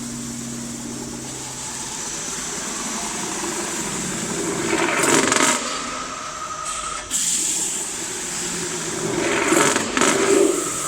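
CNC metal spinning machine running with a steady high hum. Two louder swells of rushing noise come about five seconds in and again near the end.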